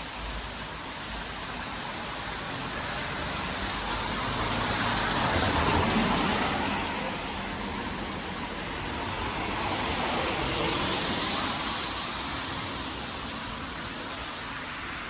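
Road traffic: two vehicles pass one after the other, the first loudest about six seconds in and the second about eleven seconds in, over a steady background hiss.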